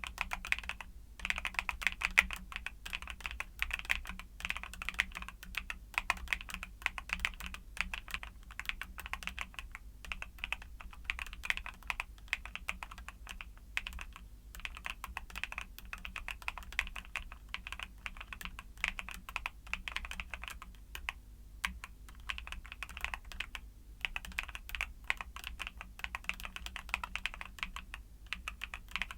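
Steady fast typing on a mechanical keyboard with YUNZII Cocoa Cream switches: a dense run of key clicks, many per second, with a few brief pauses.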